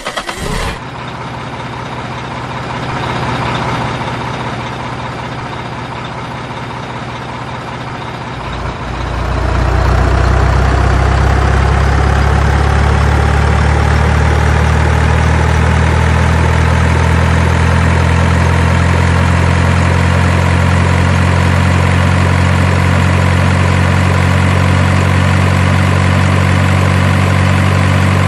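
Truck engine sound: a few clicks, then several seconds of cranking and rough running before it catches about eight seconds in and settles into a steady, loud low idle.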